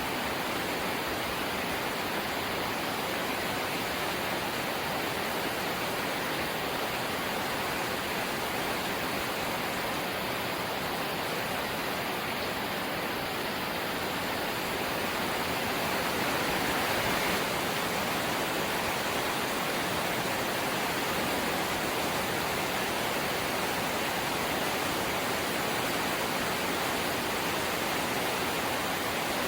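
Rain falling steadily on a corrugated zinc roof, a dense even hiss that swells slightly about halfway through.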